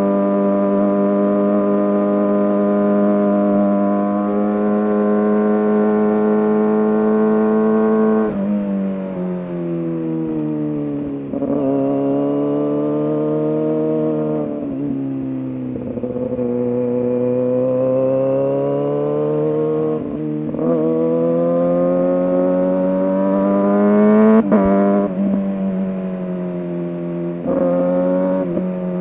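Kawasaki ZX-6R 636's inline-four with an SC Project exhaust, riding on and off the throttle through the gears. The note holds steady and high for the first eight seconds or so, then drops and climbs again several times, with short breaks at the shifts and throttle lifts.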